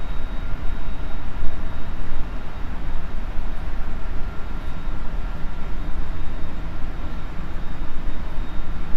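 Running sound inside a JR Central 373 series electric multiple unit's motor car under way: a steady low rumble of wheels on rail, with a faint steady whine above it.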